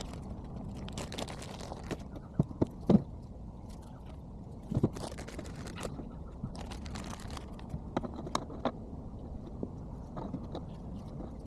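Scattered sharp metal clinks and knocks with short scraping sounds, the loudest knocks about 3 and 5 seconds in, over a steady low rumble: hand tools working on the backhoe's hydraulic boom cylinder parts.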